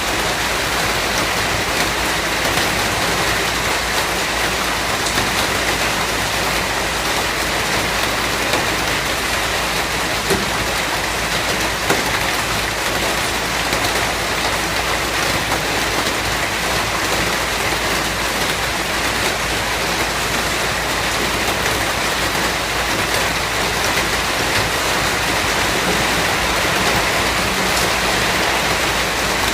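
Steady rain falling and pattering on a surface, with a few faint individual drop ticks.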